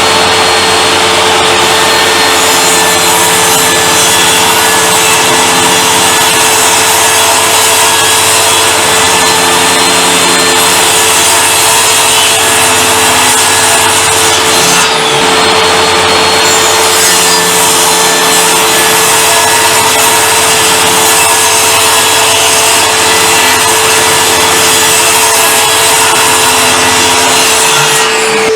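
Table saw running steadily and cutting through wood. The cutting noise eases briefly about halfway through and stops near the end, while the saw's motor keeps running.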